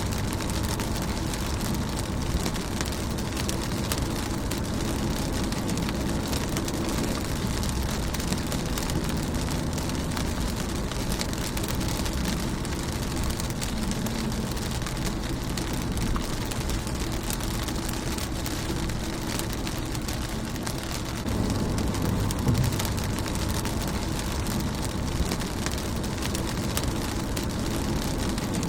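Rain falling on a car's windshield and body: a steady patter of many small drops, with a low rumble underneath that swells for a moment about three-quarters of the way through.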